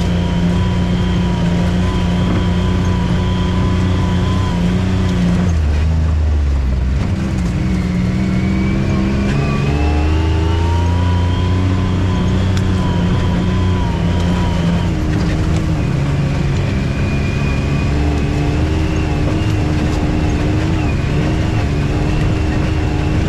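Off-road vehicle engine running while driving. Its pitch drops about five seconds in, then climbs again as it speeds up, with smaller dips later on.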